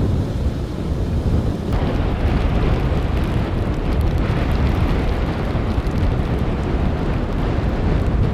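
Strong wind blowing over the microphone in a snowstorm: a steady low rumble, with a hissier gust coming in about two seconds in and holding.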